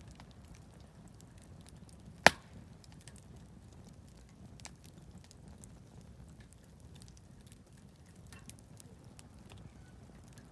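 Wood campfire crackling with faint scattered snaps, and one loud sharp pop a little over two seconds in.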